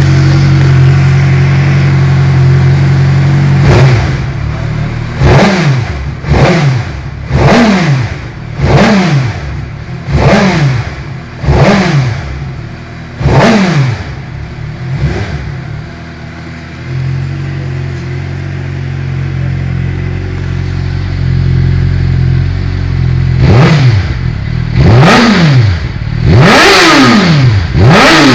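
A 2008 Suzuki GSX-R600 K8 inline-four engine breathing through a Mivv Suono titanium-carbon aftermarket exhaust. It idles, then is revved in a string of sharp throttle blips about every one and a half seconds, each rising and falling quickly. It settles back to idle, then is blipped again in quicker succession near the end.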